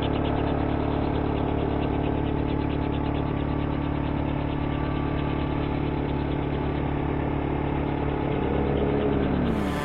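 1/6-scale Bell 47G-II radio-controlled model helicopter running steadily, a constant engine and rotor drone. Near the end the pitch falls, and then the sound cuts off suddenly.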